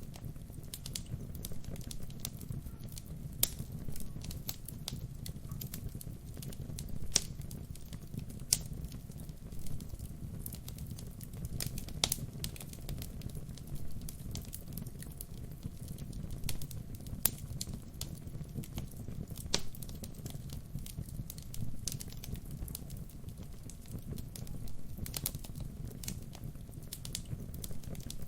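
Wood fire burning with a steady low rumble and irregular sharp crackles and pops, a handful of them louder than the rest.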